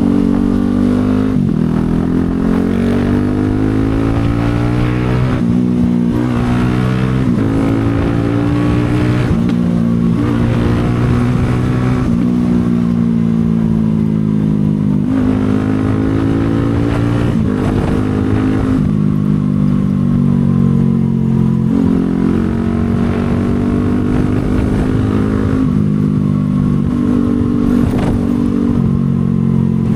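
CFMoto 250SR Lite's single-cylinder engine pulling on the road, its pitch climbing under throttle and dropping suddenly at each gear change, over and over, with the throttle easing off and picking up again.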